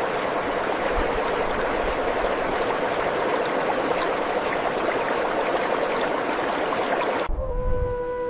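Steady rush of flowing water, like a stream, that cuts off about seven seconds in. A held tone that falls slightly in pitch follows it.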